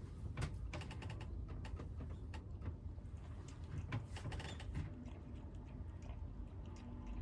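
Stray kittens eating: a scatter of small clicks and crunches, dense in the first five seconds and thinning out after, over a low steady hum.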